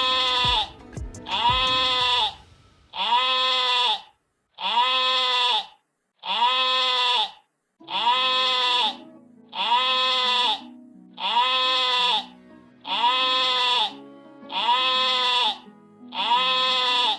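An animal call played as a loop: about eleven identical calls, each about a second long, rising then falling in pitch, one every second and a half or so.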